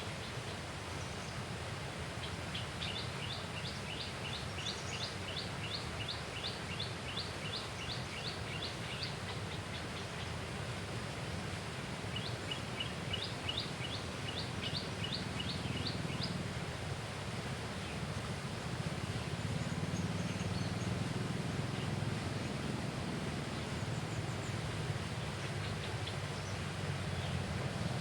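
A bird calling in two long runs of quick, evenly repeated high notes, about three a second, over a steady low background rumble.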